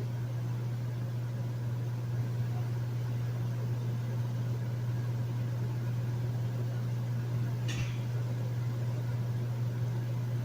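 Hotel room air conditioner running steadily: a constant low hum with an even airy hiss over it. A brief faint tick about three-quarters of the way through.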